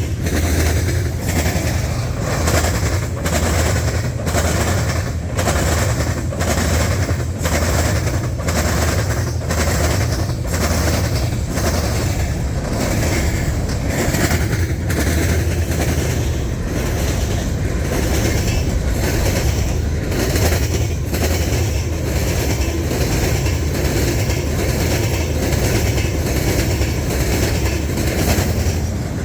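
Freight train cars rolling past at close range: a steady low rumble with regular clickety-clack as the wheels cross rail joints.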